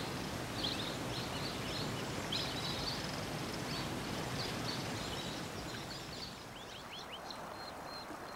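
Outdoor nature ambience: a steady hiss with faint, high bird chirps scattered through it, and a quick run of short descending chirps about six and a half seconds in.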